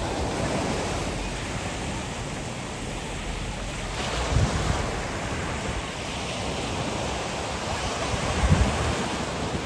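Ocean surf washing on a beach, a steady rush, with wind gusting on the microphone about halfway through and again near the end.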